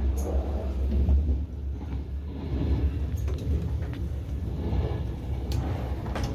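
Steady low rumble of a high-speed train running at speed, heard from inside a passenger carriage, with a few short sharp clicks near the end.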